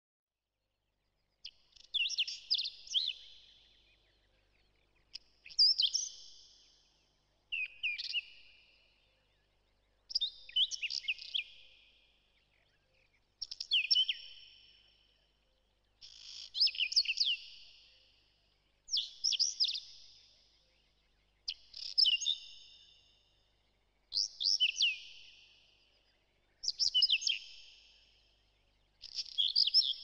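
A songbird singing the same kind of short, quick chirping phrase over and over, about every two and a half seconds, high-pitched and clear.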